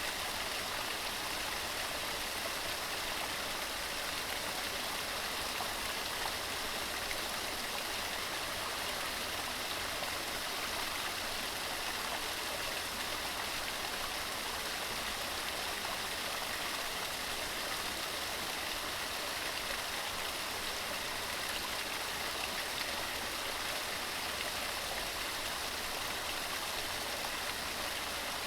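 Waterfall: water tumbling over rocks in a steady, unbroken rush. It is mostly a high hiss with little low rumble.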